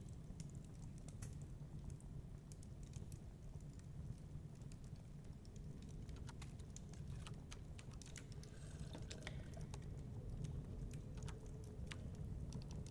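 Wood fire crackling in a fireplace: irregular sharp snaps and pops, coming thickest in the middle, over a steady low rumble.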